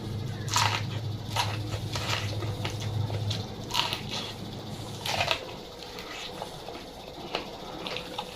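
A person eating close to the microphone: chewing with a series of crisp, wet crunches, roughly one every second or so. A steady low hum runs under the first five seconds.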